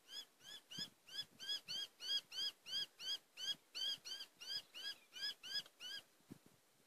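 A bird calling a rapid series of short, squeaky notes that rise and fall, about three a second, which stops near the end.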